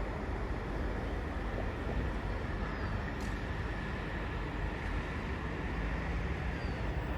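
Eight-car Sydney H-set (OSCAR) electric train at the platform, giving a steady low rumble and hum with a faint whine.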